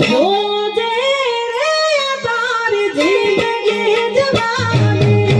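Devotional bhajan singing with instrumental accompaniment: a melodic vocal line gliding between held notes over a steady drone, with low notes coming in near the end.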